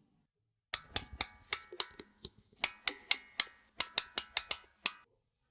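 Clockwork wind-up key being turned: about twenty sharp ratcheting clicks over some four seconds, in uneven runs with a brief pause a little past two seconds in.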